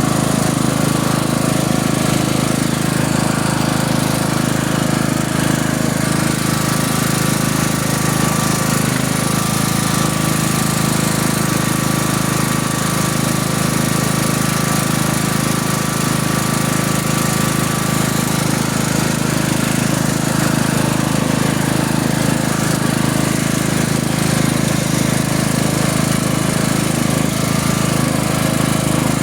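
Engine running steadily at a constant speed throughout, a loud low rumble with a faint steady whine above it, heard on board the vehicle during a ride.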